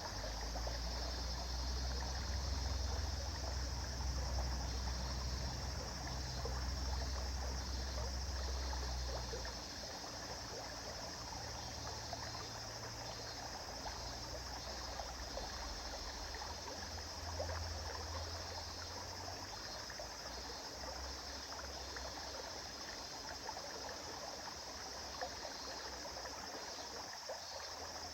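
A river or stream flowing: a steady rush and trickle of running water, with a low rumble underneath that is strongest in the first ten seconds and comes back briefly later.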